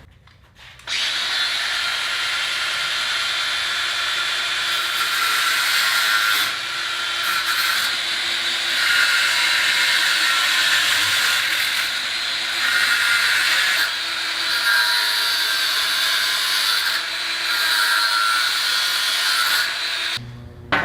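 A handheld power tool cutting through the steel wires of a wire basket. It runs continuously and its level shifts every few seconds as it bites into and comes off the wire.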